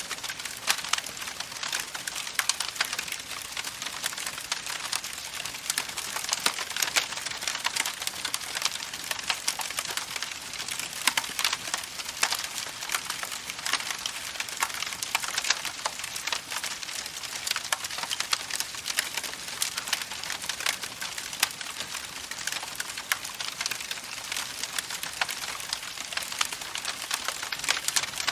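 Campfire crackling: a dense, irregular run of small pops and snaps over a steady hiss.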